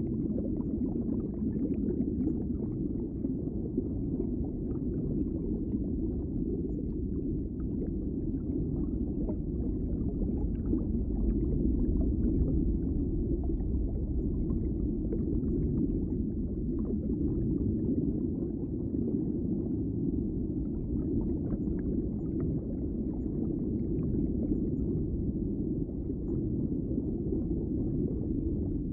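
Underwater ambience: a steady low rumbling wash of water with faint scattered crackles and clicks.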